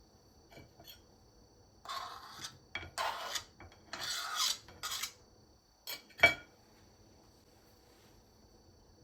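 Kitchen utensils scraping: four or five rasping strokes in quick succession, then a short knock and a sharp clink of a utensil on a dish.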